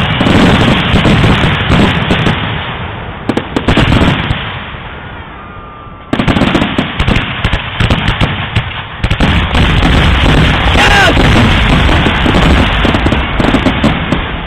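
Fireworks finale: a rapid, continuous barrage of aerial shell bursts and crackling. It eases off a few seconds in, then comes back suddenly at full strength about six seconds in, with a couple of short rising whistles.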